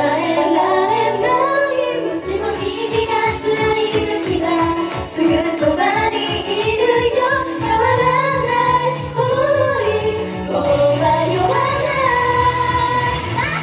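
Japanese idol pop performed live through a club PA: female voices sing the melody over a bright, upbeat backing track with a steady bass and drum pulse.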